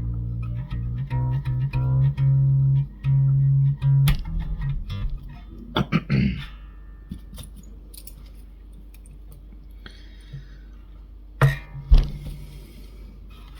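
Electric bass guitar strings plucked over and over, a low note at much the same pitch repeated about a dozen times in the first five seconds, as the restrung bass is checked under string tension. This is followed by some handling noise and two sharp knocks near the end.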